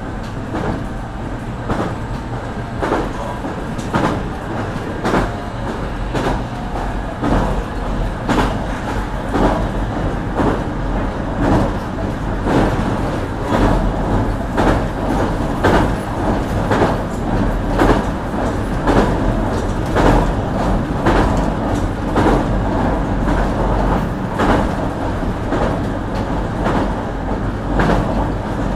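JR Kyushu BEC819 'DENCHA' battery-electric train running along the line, its wheels clicking over the rail joints at regular intervals above a steady running noise.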